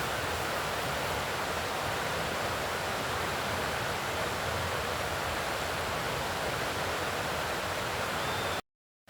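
Steady outdoor rushing noise, even and unbroken, that cuts out abruptly to silence for about half a second near the end.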